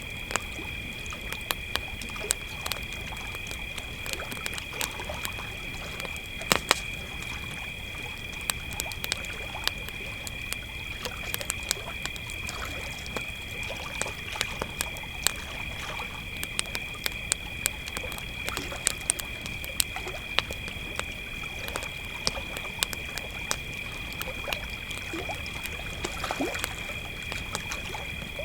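Crickets trilling steadily at two pitches, over a campfire crackling with irregular pops; one louder pop comes about six and a half seconds in.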